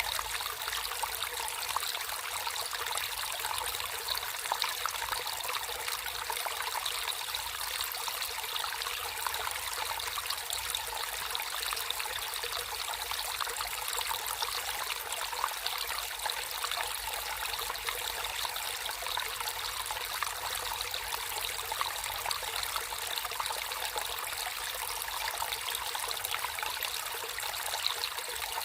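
Water flowing and trickling in a natural stream, a steady, even splashing hiss with little low rumble.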